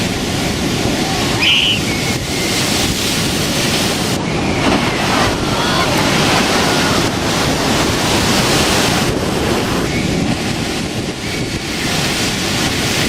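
Heavy storm surf, waves crashing and washing in a continuous loud rush, with wind buffeting the microphone.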